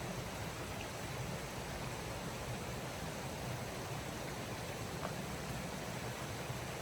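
A steady rushing noise with no clear rhythm or tone, broken only by two faint ticks, one about a second in and one about five seconds in.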